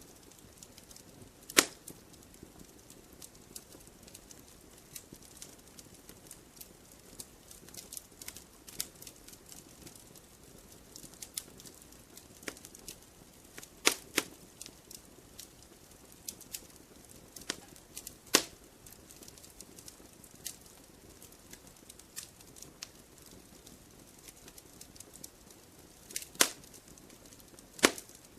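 Wood campfire crackling: a steady scatter of small sharp crackles, with five loud pops from the burning wood spread through the stretch.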